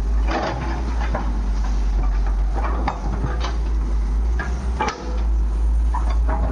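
Heavy diesel machinery running at a steady low rumble, with irregular knocks and metallic clanks throughout, typical of a backhoe loader working mud into a tractor trolley.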